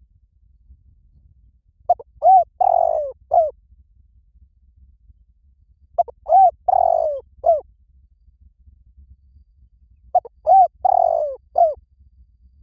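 Spotted dove calling: three cooing phrases about four seconds apart, each a quick run of short notes around one longer coo.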